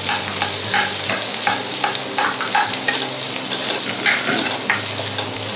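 Boiled mashed potatoes frying in oil with mustard seeds and curry leaves, sizzling steadily, while a plastic spatula stirs and scrapes them around the pan in quick, irregular strokes.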